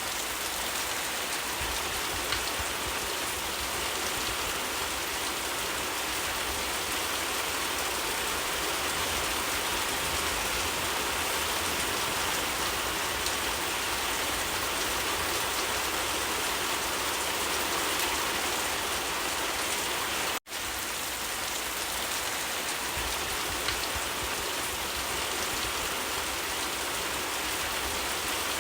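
Steady rain falling and pattering on surfaces. The sound cuts out for an instant about twenty seconds in, then resumes unchanged.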